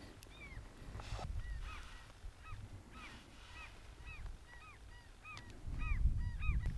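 A bird calling over and over in short rising-and-falling notes, two or three a second. Wind rumble on the microphone grows louder near the end.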